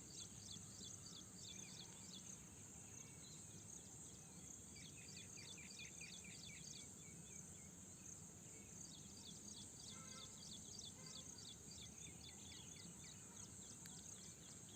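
Faint insect chorus: a steady high drone with runs of quick, short chirps that come and go several times.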